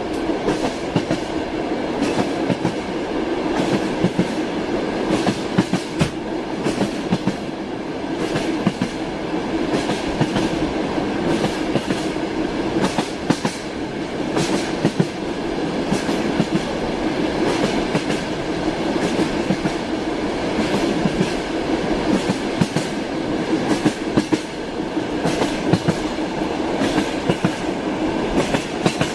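Train wheels clattering over rail joints: a steady rumbling ride on a moving train, with frequent irregular clicks and knocks throughout.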